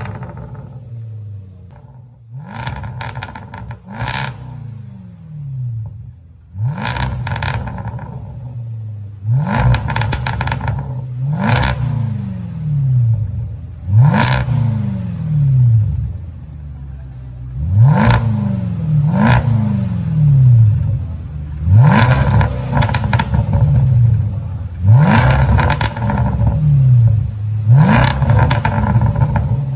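2020 Range Rover SVR's supercharged 5.0 V8 through an aftermarket Quicksilver exhaust, blipped repeatedly while stationary: about a dozen quick revs, each rising sharply and falling away over a second or two, with crackles as the revs drop. The blips come closer together and louder in the second half.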